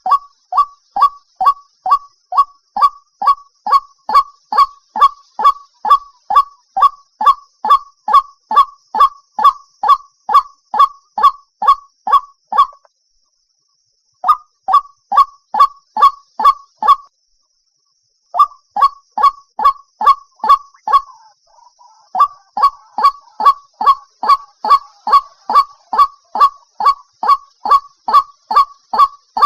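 White-breasted waterhen calling: a long run of short, sharp notes about two a second, each dipping slightly in pitch. The run breaks off twice for a second or so, about halfway through, and turns briefly jumbled about two-thirds in, over a faint steady high hiss.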